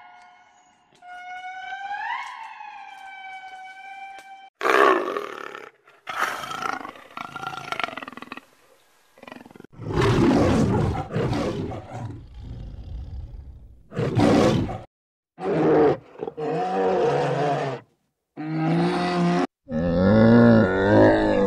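A series of animal calls: ring-tailed lemurs giving high, rising-and-falling wailing calls, then a lion roaring in loud rough bursts, then camels grunting and moaning in short repeated calls near the end.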